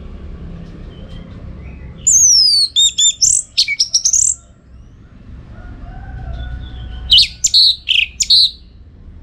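Orange-headed thrush singing in two loud bursts of quick, varied whistled phrases with sweeping notes, about two seconds in and again about seven seconds in, over a steady low background hum.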